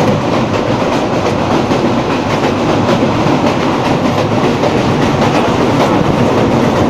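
Passenger train running across a steel truss railway bridge, heard from inside a coach at its window: the steady, loud noise of wheels on the rails over the bridge.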